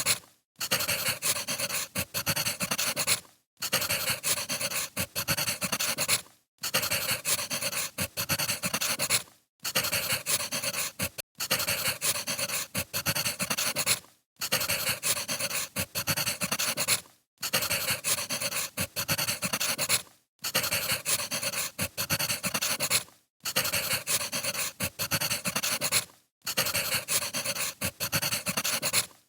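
Wood fire crackling and popping, a dense run of small snaps over a hiss. It cuts out for a split second about every three seconds, as a short recording played on a loop would.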